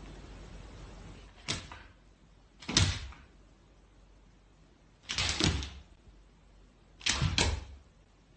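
A series of sharp bangs at uneven intervals, the loudest about three seconds in and two in quick succession near the end.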